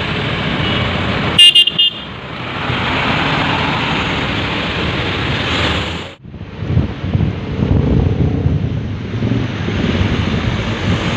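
A truck horn gives a short, loud burst of blasts about a second and a half in, over steady passing road traffic. About six seconds in the sound cuts off suddenly and gives way to gusty wind rumble on the microphone.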